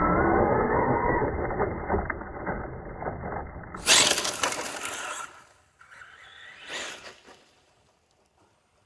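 Traxxas Sledge VXL RC monster truck driving: its brushless motor whines, falling in pitch, over tyre noise on the ground. A louder burst of tyre and motor noise comes about four seconds in, then the sound dies away to near silence in the last second.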